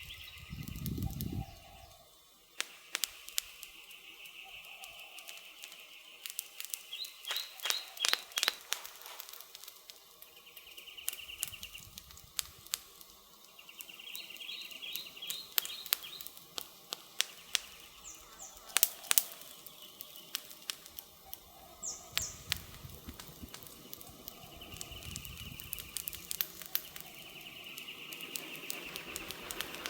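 Campfire of burning firewood crackling, with irregular sharp pops that come in clusters, loudest about eight and nineteen seconds in. A faint high chirping runs behind it, and there is a brief low rumble about a second in.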